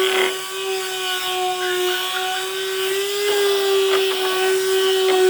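A high-speed power tool motor running with a steady, high-pitched whine over a hiss, its pitch rising slightly about three seconds in. A few sharp clicks or knocks come near the end.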